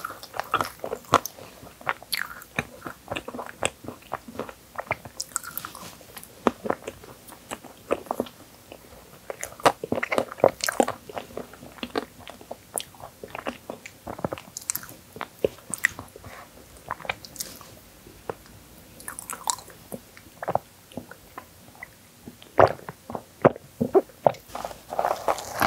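Close-miked mouth sounds of chewing Oreo cookies-and-cream tiramisu: soft cream with crunchy Oreo cookie pieces crackling between the teeth in irregular bites. Near the end come a few louder gulps as a drink of coffee is swallowed.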